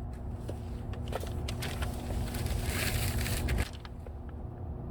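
Parts being handled: a few light clicks and some rustling over a steady low rumble, easing off a little after about three and a half seconds.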